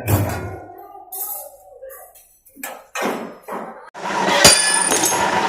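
A thump at the start, then a few short bursts, then a machine starts running about four seconds in with a steady noise. A sharp metallic clang rings out just after it starts.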